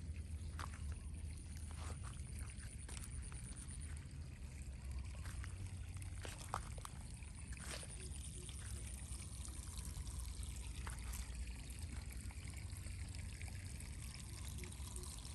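Water trickling and pouring, with scattered small clicks and knocks over a steady low rumble.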